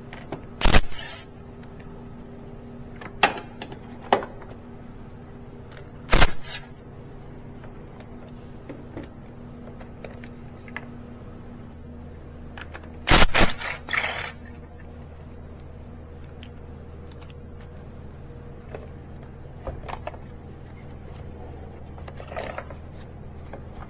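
Metal hand tools clinking and clattering as they are picked up and set down, with a handful of sharp knocks and a brief cluster of clatter about halfway through, over a steady low hum.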